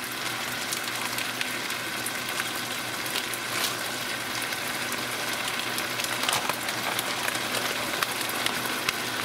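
Ground beef with taco seasoning and water sizzling steadily in a hot skillet, with scattered small pops and crackles as the liquid cooks off.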